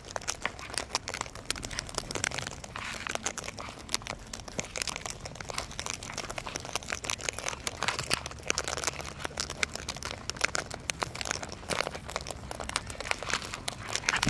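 Sulphur-crested cockatoos crunching and rummaging through seed, including one in the seed bucket: a dense, irregular run of small cracks, crunches and rustles.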